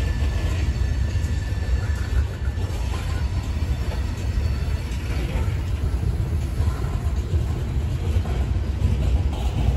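Freight train's open-top cars rolling past at speed: a steady low rumble of steel wheels on rail.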